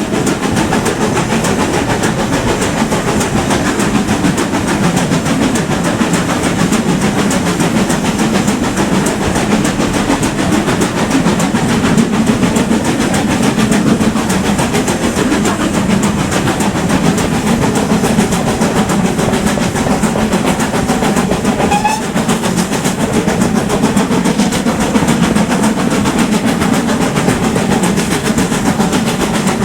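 Steam train of Manor class locomotives on the move: a loud, steady rumble of the running train without breaks.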